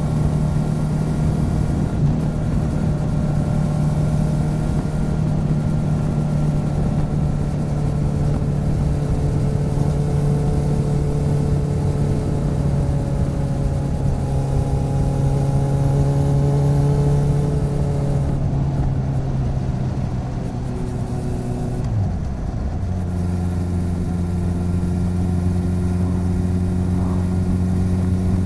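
Motorcycle engine running steadily under way, heard from close beside the bike. About three-quarters of the way through the engine note drops and settles into a lower steady note.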